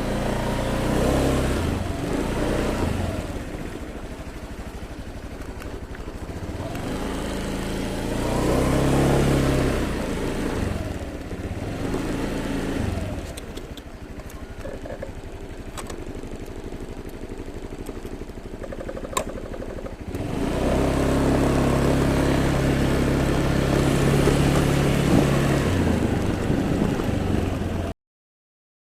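Motorbike engine while riding, its pitch rising and falling several times as it accelerates and eases off, then running steadier and louder for several seconds before the sound cuts off abruptly near the end.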